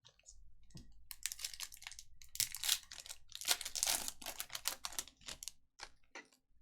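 A rapid run of light, crisp clicks and taps, densest for about four seconds in the middle, with a few stray clicks before and after.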